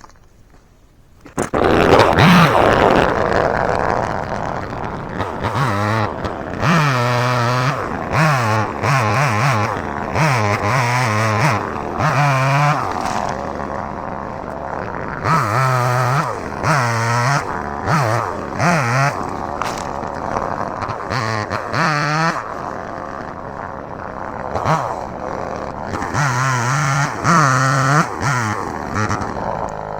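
Two-stroke chainsaw starting up about a second and a half in, then revving up and down over and over as it cuts through small saplings. It shuts off right at the end.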